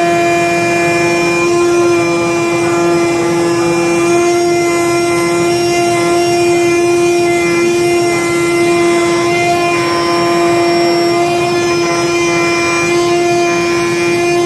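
IECHO flatbed digital cutting machine running while it cuts foam board: a loud, steady hum with a whine of overtones that holds one pitch throughout.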